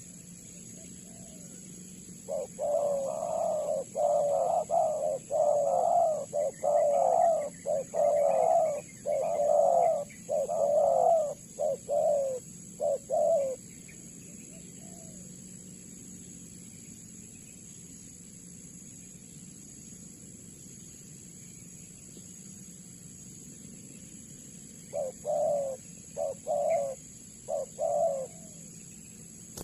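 Spotted dove (tekukur) cooing: a long run of coos beginning about two seconds in and lasting roughly eleven seconds, then a shorter bout of a few coos near the end.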